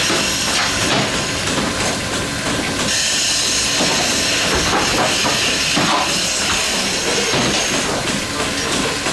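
Goat milking machine running, with a steady loud hiss and a few short sounds now and then.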